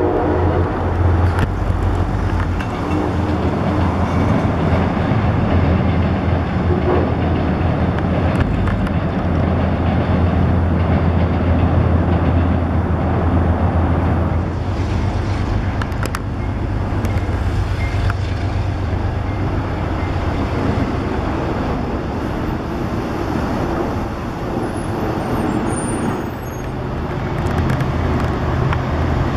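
Steady, loud low rumble of a train running at the station, with a deep, even hum underneath.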